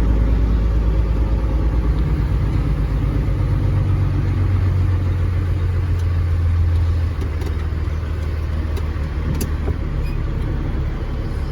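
Caterpillar 3406E inline-six diesel of a Freightliner FLD120 semi-truck running at low speed while the truck is manoeuvring, a deep steady rumble that drops a little in level about seven seconds in.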